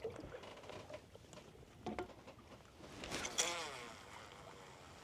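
Faint clicks and knocks of fishing gear being handled in a boat, the clearest about two seconds in, with a brief murmured voice about three seconds in.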